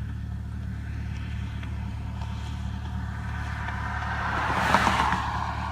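Steady low vehicle hum, with a vehicle passing that swells up and is loudest just before five seconds in, then fades.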